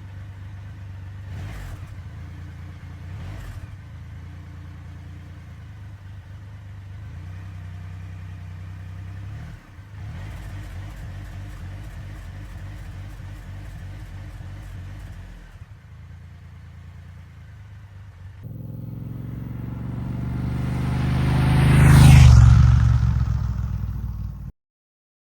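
A vehicle engine running steadily. Near the end it grows much louder as it revs or passes close, with a falling pitch at its peak. The sound then cuts off suddenly.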